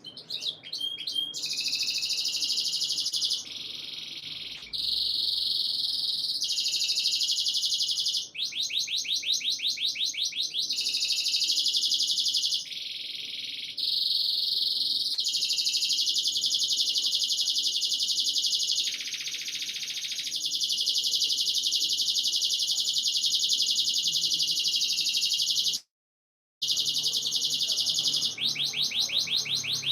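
Canary singing a long, continuous, high-pitched song, with fast rattling trills repeated several times among warbled phrases. The sound drops out completely for under a second near the end, then resumes.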